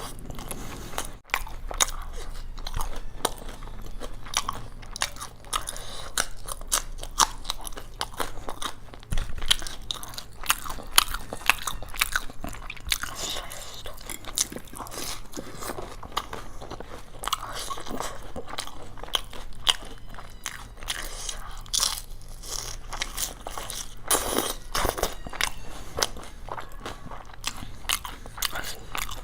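Close-up eating sounds: a person biting and chewing crunchy food, with many sharp, irregular crunches and crackles.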